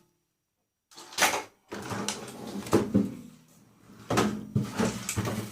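Knocks and clatter of stripped microwave parts being handled and set down, beginning about a second in, with several sharper hits among them.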